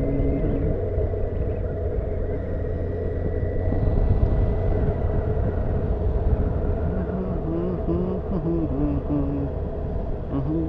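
Honda CBF motorcycle being ridden: a steady low engine rumble mixed with wind noise on the camera. In the second half, a sequence of short pitched notes steps up and down over the rumble.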